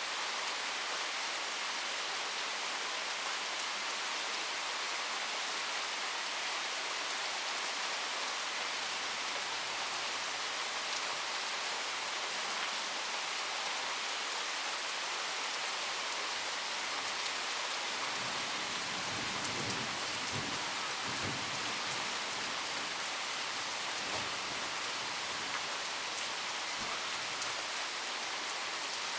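Steady rain falling in a thunderstorm, an even hiss, with a low rumble that swells for a few seconds past the middle.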